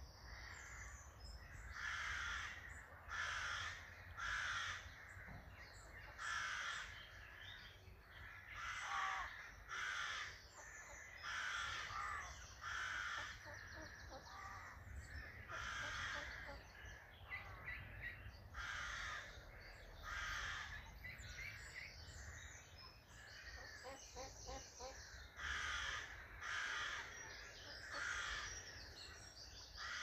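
A bird giving harsh calls over and over, about one a second, above a faint steady low rumble.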